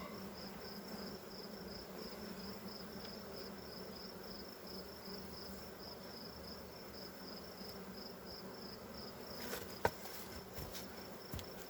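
Honey bees buzzing around an open hive, a steady hum from a disturbed colony. Behind it a high chirp pulses evenly, about two to three times a second, and a few sharp clicks come near the end.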